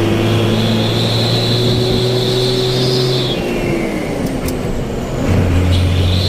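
Motorcycle engine running through an aftermarket 'cung' racing exhaust, held at steady revs, easing off about three seconds in, then picking back up near the end.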